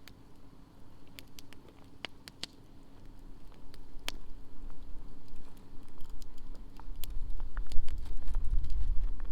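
Wood campfire crackling, with sparse, irregular sharp pops and snaps. A low rumble builds from about three seconds in and is loudest near the end.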